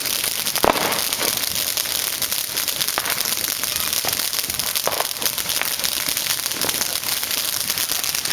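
Fireworks crackling without a break, a dense rattle of small reports like automatic gunfire, with a few louder pops standing out. The loudest comes just under a second in.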